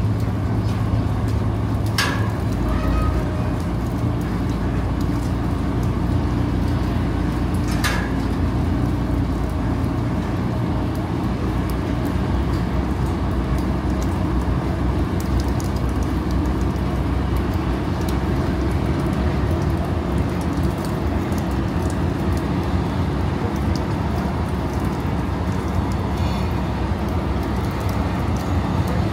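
Rain falling on a ferry's open steel deck over the steady low hum of the ship's engines. Two sharp clicks come in the first third.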